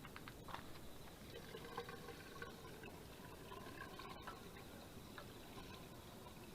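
Faint sound of liquid being poured, with a few light clicks and knocks.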